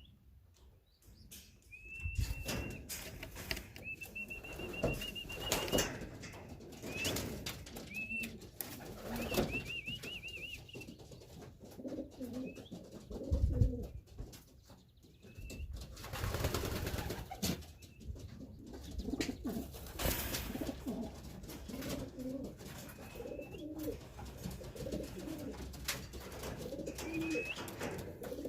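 Racing pigeons cooing in the loft, with wing flaps and scattered sharp clicks; thin high chirps come in the first ten seconds and again near the end.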